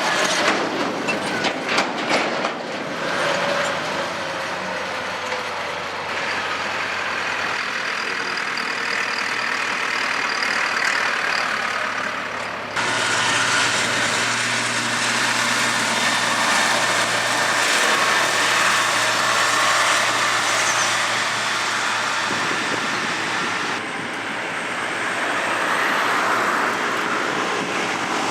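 Tractor engines running steadily, the sound changing abruptly several times as one recording gives way to another, with a few sharp clicks in the first few seconds.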